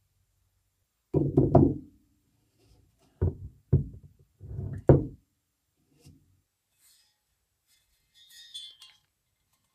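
Knocks in a small workshop: a quick run of three or four about a second in, single knocks about two seconds later, and another group around five seconds in. Near the end comes a short, light rattle.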